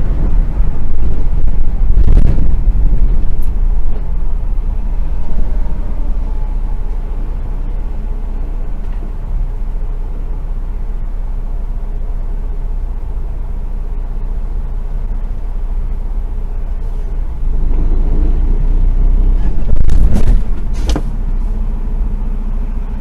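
A vehicle on the move: a steady low engine and road rumble, with sharp knocks about two seconds in and twice near the end, where the rumble briefly grows louder.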